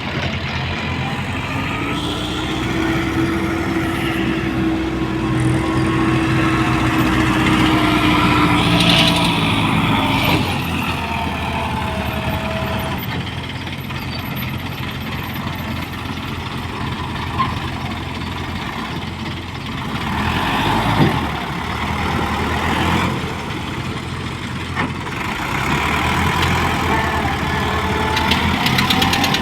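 Diesel engines of an excavator and tractors running steadily while the excavator works. A pitched tone rises slightly and then falls away about ten seconds in, and there is a brief knock about twenty-one seconds in.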